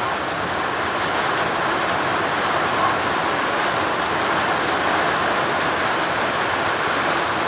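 Heavy rain bucketing down steadily: an even, unbroken hiss of a summer thunderstorm downpour.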